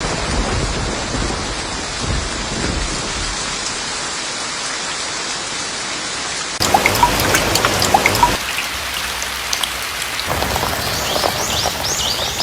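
Rain falling with a steady hiss. About six and a half seconds in it changes to a louder patter with sharp drips, and a few short high chirps come near the end.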